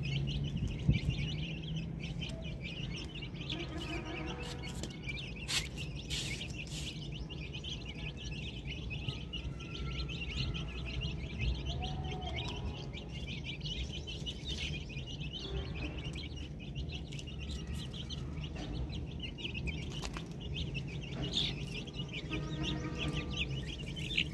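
Birds chirping continuously in a dense chorus of short, high chirps, over a steady low hum. A few sharp clicks come about six seconds in.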